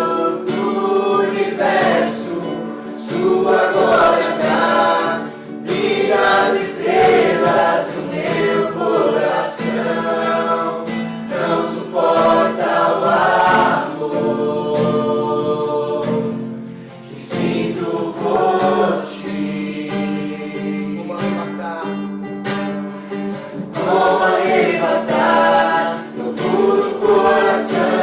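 A small group singing a worship song together to a strummed acoustic guitar, in phrases with brief breaths between lines.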